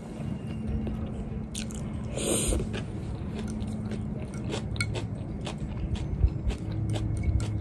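A person chewing a mouthful of crunchy diced vegetable salad (sweet corn, peas, bell pepper) close to the microphone: many small wet crunches and clicks, with a louder crunch a little over two seconds in.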